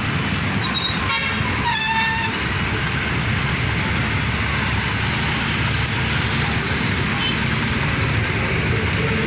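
Heavy road traffic running past, with a steady engine rumble and tyre noise. A vehicle horn sounds briefly twice, about one to two seconds in.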